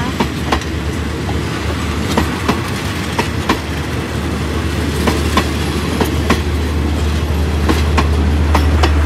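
Train running on the rails, with irregular clicks and knocks of the wheels over the track over a steady rumble. A low drone grows louder from about halfway through.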